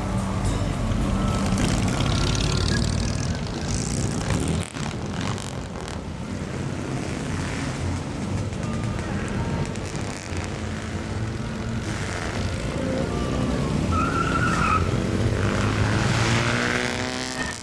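Vintage car engines running low as the cars drive slowly past. The sound drops out briefly about five seconds in, and near the end one engine's note rises as it pulls away.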